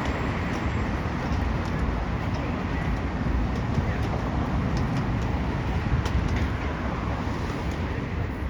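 Downtown street ambience: a steady rumble of city traffic, with a few faint clicks.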